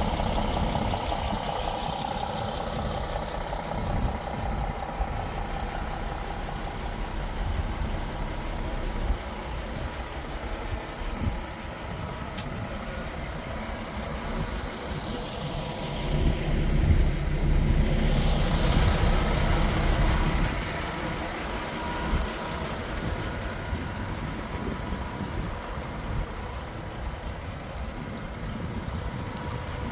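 Diesel engine of a DAF XF 480 truck, a PACCAR MX-13 straight-six, idling steadily. It gets louder for a few seconds past the middle, and there is a single sharp click a little before.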